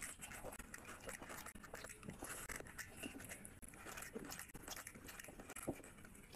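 Close-miked chewing and lip-smacking of rice and curry eaten by hand, with fingers squishing and mixing the rice on the plate; many small, irregular wet clicks.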